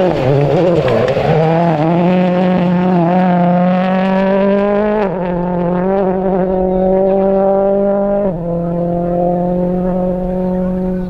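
Ford rally car engine running hard under load. The revs waver up and down at first, then hold high and climb slowly, with two quick drops in pitch about five and eight seconds in as it shifts up.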